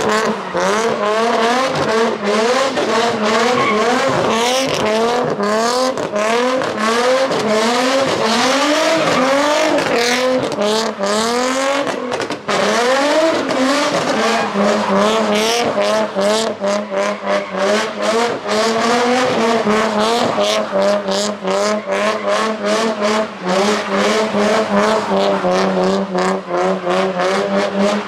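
Nissan 350Z doing donuts, its V6 engine revving up and down over and over with tyres squealing on the pavement. After about halfway, the engine holds a steady high note that keeps cutting out and back in rapidly.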